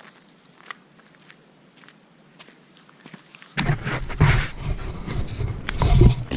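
Faint footsteps on a trail. About three and a half seconds in, a loud rough noise with a deep rumble takes over and stops abruptly near the end.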